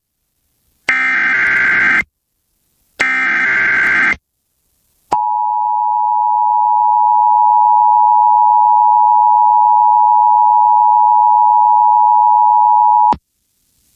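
Emergency Alert System broadcast signal: two bursts of SAME digital header data, a harsh buzzing warble about a second each with a second's gap between, then the EAS two-tone attention signal (853 and 960 Hz sounded together), held steady for about eight seconds and then cut off.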